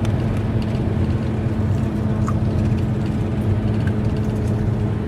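Vehicle engine running at a steady speed, a low even drone with a constant hum.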